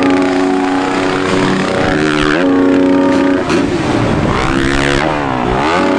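Dirt bike engines revving hard. The pitch holds steady at high revs for about a second at a time, with swooping drops and rises in between as the throttle is chopped and reopened.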